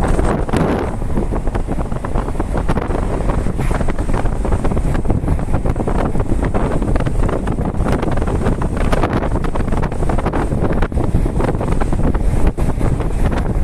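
Wind rushing and buffeting the microphone of a moving vehicle, over steady low road noise.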